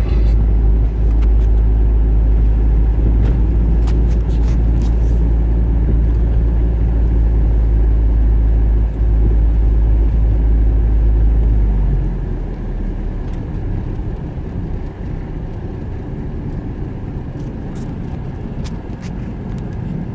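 Car running on a snowy road, heard from inside the cabin: a steady low rumble of tyres and engine that drops noticeably about twelve seconds in, with a few faint ticks.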